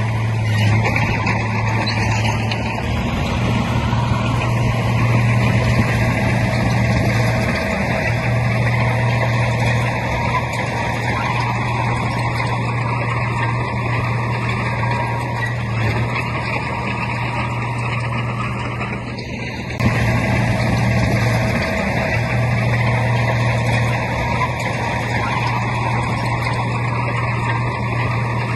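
Heavy diesel engine of earthmoving machinery running steadily with a low drone, dipping briefly about two-thirds of the way in, then coming back suddenly louder.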